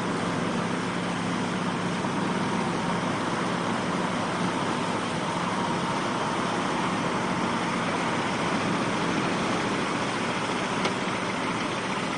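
A motor vehicle's engine running steadily, heard as an even rushing noise, with a low hum that fades out about three seconds in.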